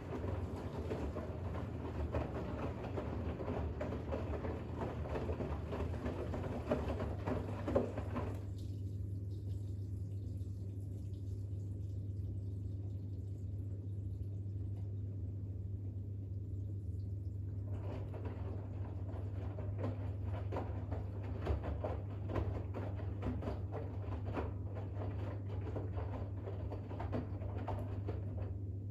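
Bosch WAX32GH1 washing machine draining after a rinse. The drain pump hums steadily while water sloshes and gurgles in the drum and out through the drain. The water noise stops about eight seconds in and returns about ten seconds later.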